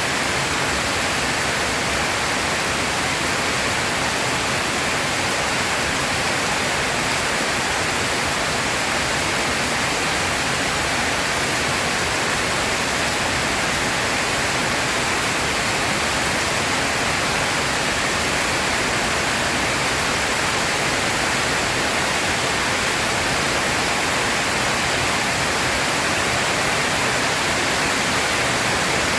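Heavy rain pouring down in a steady, unbroken hiss, with no thunder.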